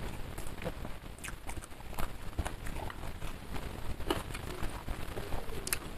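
Close-miked eating sounds: chewing with irregular wet mouth clicks, one louder click about two seconds in.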